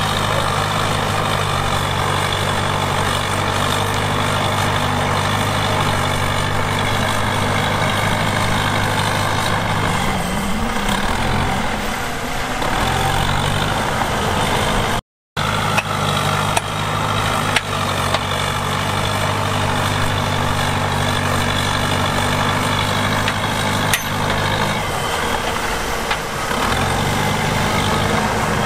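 Heavy diesel earthmoving-machine engine running steadily, with its pitch wavering for a few seconds about a third of the way in. The sound cuts out for a moment about halfway through.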